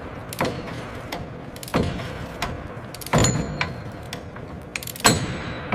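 A series of sharp metal clanks and knocks, about eight in all, the loudest about two, three and five seconds in. A couple of them leave a brief high ringing, and they sit over a steady low background hum.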